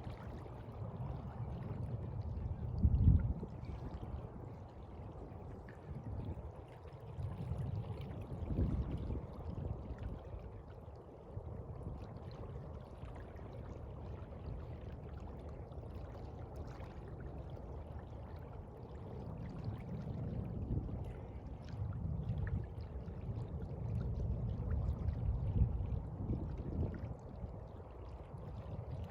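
Sea water washing and lapping in uneven swells, with a sharp louder surge about three seconds in and a longer build near the end.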